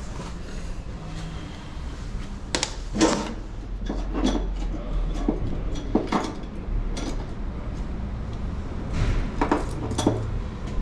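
Metal tools and parts clinking and knocking during hand work on an engine, a string of separate clanks and clicks over a steady low hum.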